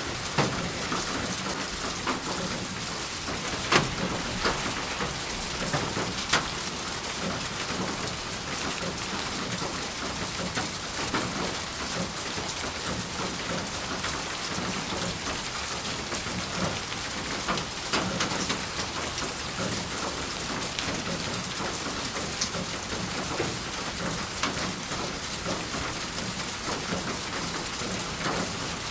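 Steady rain falling on a hard surface, an even hiss with scattered louder single drops hitting close by.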